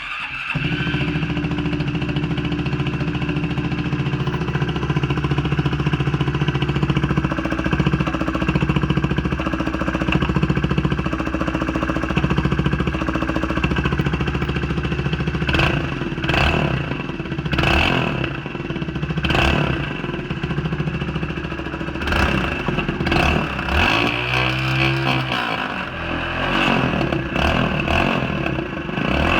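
Honda Monkey 125's single-cylinder engine starting up and idling steadily through its damaged stock exhaust, which is broken where the pipe goes into the silencer. It is revved several times in the second half.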